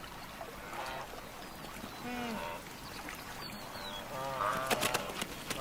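Wildebeest calling: several short, low calls that bend in pitch, over a steady background of water. Near the end come a run of sharp clicks and splashes.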